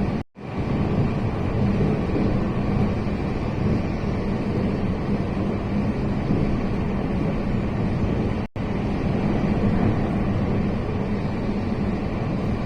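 Steady low rumble of a moving train, broken twice by an abrupt split-second gap.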